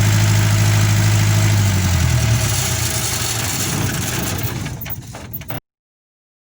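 Caterpillar diesel generator engine running at a steady speed, then about two seconds in its pitch drops and it fades as the engine runs down. The sound cuts off abruptly near the end.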